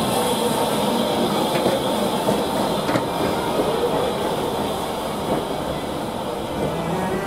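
Maroon-and-cream passenger coaches of a steam-hauled heritage train rolling past alongside the platform: a steady rolling rumble and rattle with a few faint wheel clicks.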